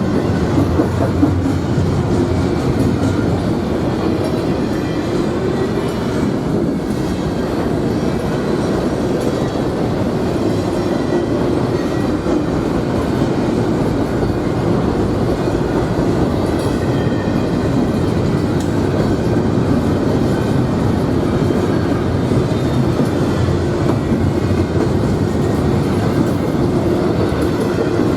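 A train rolling past, its wheels running over the rails in a steady, continuous noise that carries on without a break.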